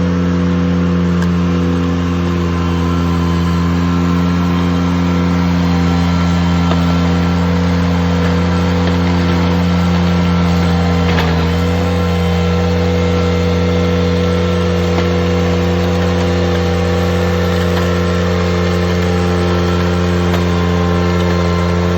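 Ventrac compact tractor engine running steadily at high speed while driving a power rake attachment. There is a brief click about halfway through, and the engine pitch settles slightly just after it.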